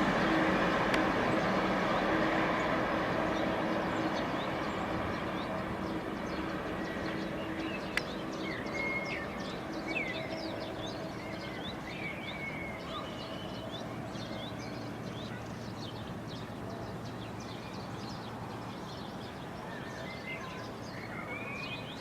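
A train moving off into the distance, its rumble and steady hum fading away over the first half. Birds start chirping about eight seconds in.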